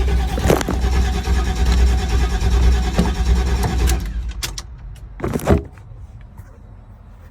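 An old army truck's engine being cranked over without running properly, stopping about four seconds in; it is not getting fuel, which the owner takes for bad throttle-body injectors. A few small clicks and then a single loud clunk follow.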